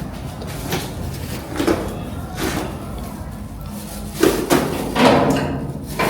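A door being worked shut: a series of knocks and clunks, the loudest about four to five seconds in.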